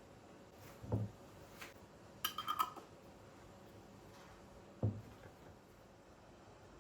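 Household objects being handled and set down: a soft thud about a second in, a quick run of ringing clinks about two seconds later, and another soft thud near the end.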